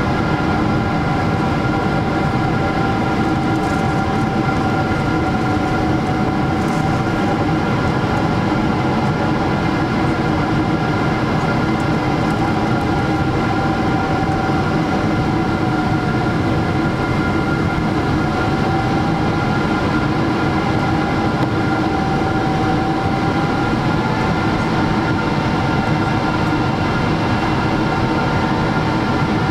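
Steady cabin noise aboard a Boeing 777-300 in flight: a constant rush of air and engine noise with a few steady hums, one of which drifts slightly up and down in pitch.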